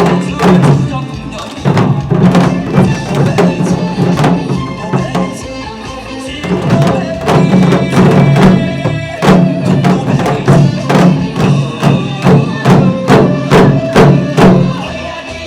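Janggu drums struck in a quick, regular rhythm in time with a recorded trot backing track, sharp drum strokes over a steady bass line.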